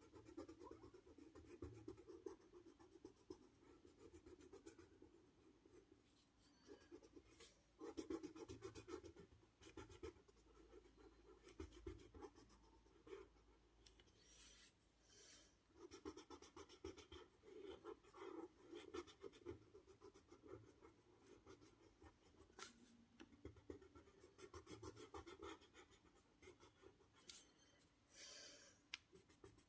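Faint scratching of a drawing tool stroking across paper, in irregular bursts of strokes with short pauses between them.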